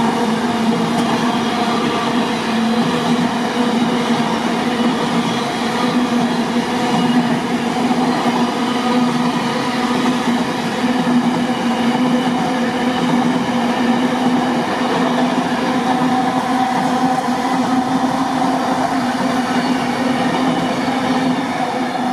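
A train running past at close range: a steady, loud drone of engine or traction noise with a constant low hum, over the rush of wheels on the rails.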